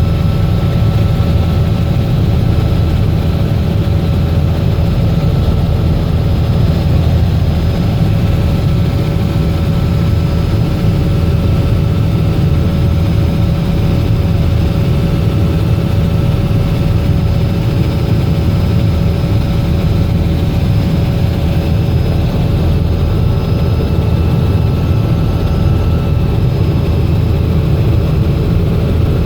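Robinson R66 helicopter in flight, its Rolls-Royce RR300 turboshaft and rotor making a loud, steady low rumble with several thin, steady whining tones over it.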